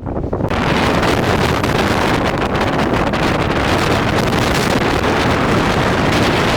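Strong wind blowing hard across the microphone: a loud, steady rush of noise that comes up suddenly about half a second in and holds.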